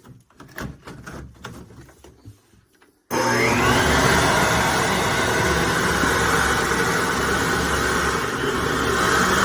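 Some handling clicks and knocks, then about three seconds in an electric leaf blower switches on. Its motor whines up to speed within a second and then runs loud and steady.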